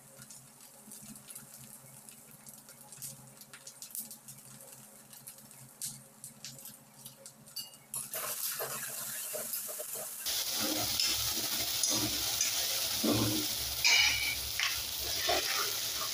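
Okra frying in a kadhai, stirred with a metal ladle. The first half is quiet with only faint small clicks; about halfway the sizzling starts and grows louder, with the ladle scraping and knocking against the pan.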